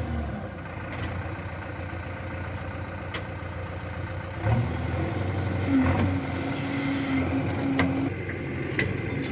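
Heavy-machinery engine running with a steady low hum, stepping up in pitch about halfway through and holding a higher tone for a couple of seconds.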